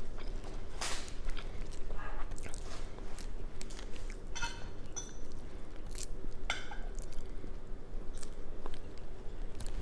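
Chewing and wet mouth sounds while eating a seafood boil, with scattered sharp clicks and crackles as shellfish shells are peeled by hand.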